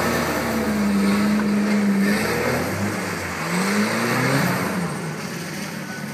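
A Nissan's engine revving during donuts on a wet surface: the engine note is held steady for about two seconds, drops, then climbs again about four seconds in before easing off. Throughout there is a steady rushing noise.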